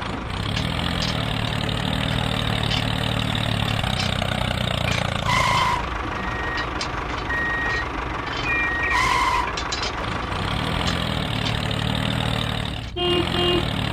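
A vehicle engine running steadily, with a short beep about five seconds in and again about nine seconds in.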